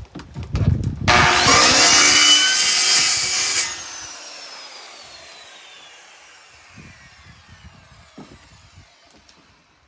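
A handheld power tool with a spinning blade or disc, such as a saw or grinder, is switched on suddenly and runs loudly for about two and a half seconds. It is switched off and coasts down, its pitch falling as it fades. A few knocks come before it and a few faint ones after.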